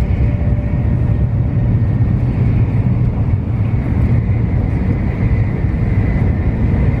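Tokaido Shinkansen running noise heard inside the passenger cabin: a steady low rumble with a faint, steady high whine.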